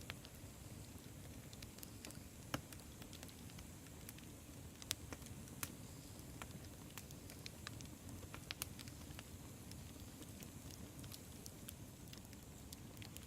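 Campfire crackling: irregular sharp pops and snaps, a few louder than the rest, over a steady low rumble of the burning fire.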